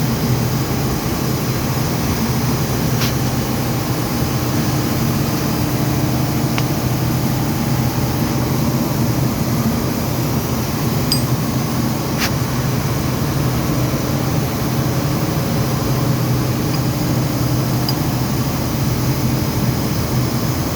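Steady, loud drone of running machinery with a low hum, and a few light metallic clicks scattered through it.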